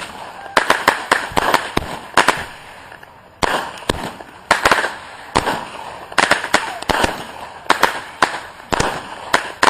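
Fireworks going off: a rapid, irregular string of sharp bangs with crackling between them, and a brief lull about three seconds in.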